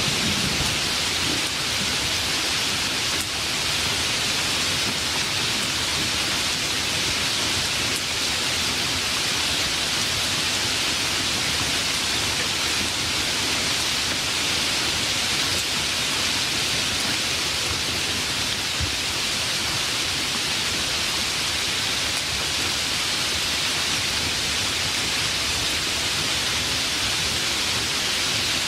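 Steady rain falling in a rainstorm, an even hiss with no single drops standing out. A low rumble of thunder fades out in the first second or so.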